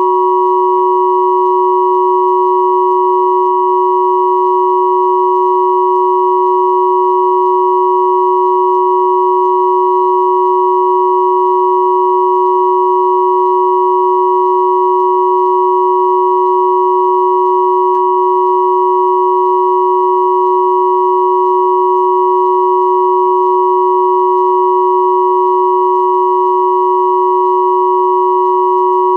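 Pure sine tones at 369, 963 and 1111 Hz sounding together as one steady, unbroken electronic chord, played as a combined 'healing frequency' tone.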